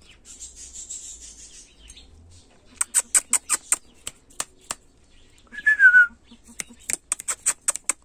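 Bird calls: two quick runs of short, sharp chirps, about five a second, and between them one loud falling whistled note.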